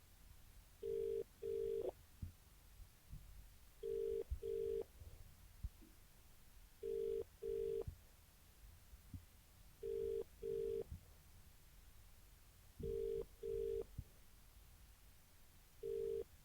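Telephone ringing tone as the caller hears it down the line, in the British double-ring pattern: two short beeps close together, repeating every three seconds, six times. It follows a number just dialled and means the called phone is ringing.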